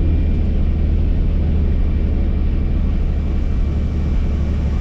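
Helicopter engine and rotor noise: a loud, steady low rumble with a fast, even beat from the rotor blades.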